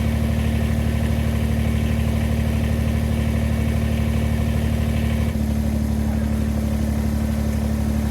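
Engine idling steadily, with a slight shift in its note about five seconds in.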